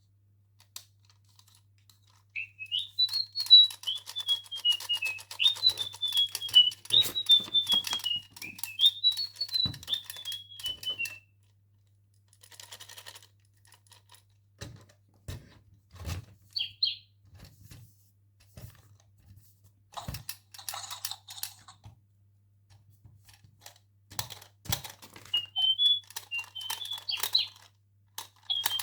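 Electronic toy bird chirping: a warbling tweet of whistled notes that rise and fall, running for about eight seconds from a couple of seconds in and coming back near the end. Around and between the chirps come sharp clicks and crackles of the toy and its plastic packaging being handled.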